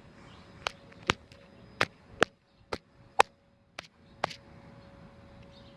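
A series of about nine sharp taps or clicks at uneven intervals, over a faint steady hum.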